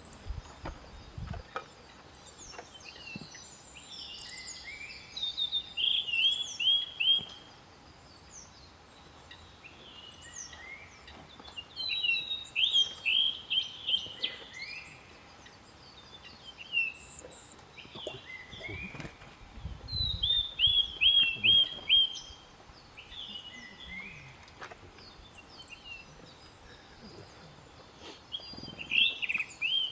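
Wild songbirds singing. One bird repeats a short phrase of quick, evenly spaced notes about every seven or eight seconds, while other birds call around it. A brief low rumble comes about twenty seconds in.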